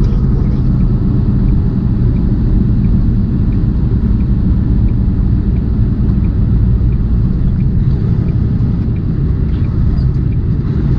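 Inside a loaded tractor-trailer's cab at highway speed: a steady low rumble of the diesel engine and road noise, with a faint, evenly spaced ticking for a few seconds.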